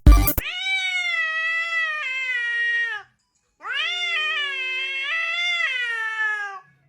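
A cat giving two long, drawn-out meows, each lasting about two and a half seconds with a short pause between, the pitch sagging at the end of each.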